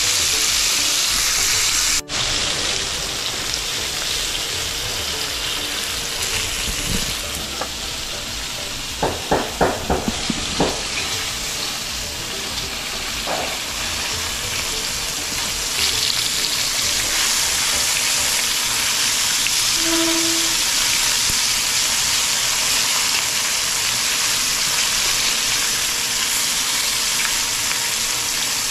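Fish frying in hot oil: a steady sizzle, with a short run of sharp clicks or knocks about nine to ten seconds in.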